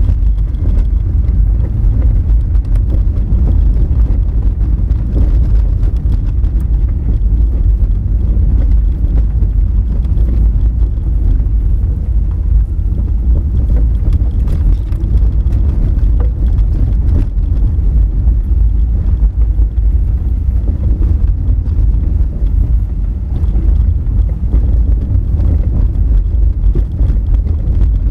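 Honda Fit compact car driving over a rough, rocky gravel road: a loud, steady low rumble from the tyres and body on the loose rock, with scattered small ticks.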